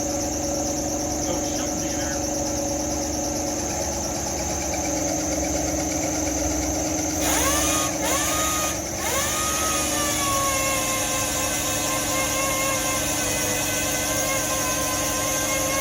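A power sander starts up about seven seconds in, its pitch rising as it spins up. It cuts out briefly twice, then runs steadily with a whine. A steady shop hum runs underneath.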